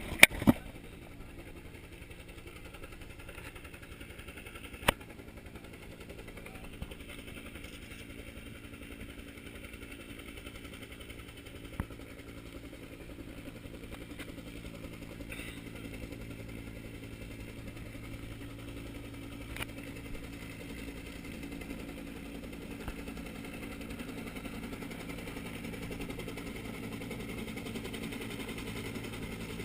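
A steady low engine hum that grows slightly louder toward the end, with a few sharp knocks, the loudest two right at the start.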